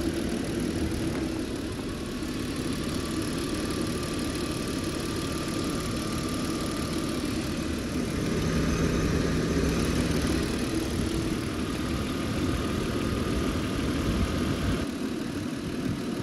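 BMW E39's straight-six engine idling steadily, warming up after a coolant hose replacement and refill so the cooling system can be checked for leaks and overheating.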